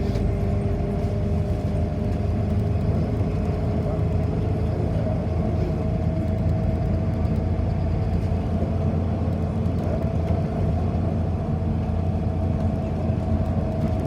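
City bus in motion, heard from inside the cabin: a steady low rumble from the drivetrain and road, with a faint steady hum above it.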